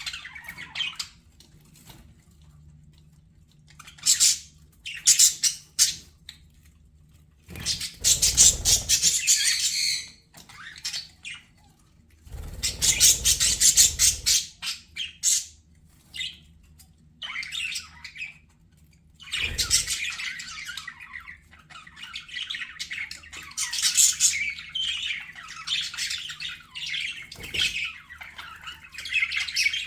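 Pet budgerigars chattering and squawking in short bursts, then warbling almost without a break through the second half. Two louder bursts in the first half carry a low rumble underneath.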